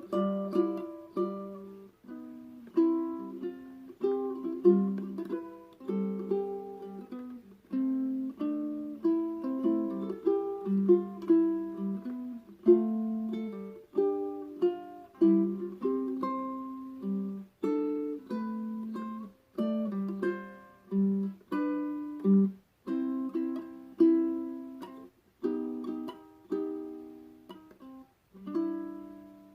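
Solo ukulele played fingerstyle: a plucked melody over bass notes in a children's-song arrangement, closing on a final held note that rings out near the end.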